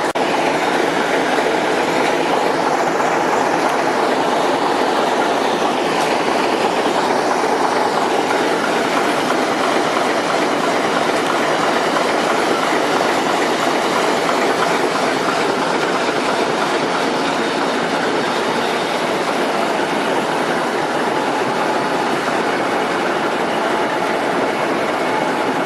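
A train rolling past on the rails, its wheels running steadily on the track with no let-up.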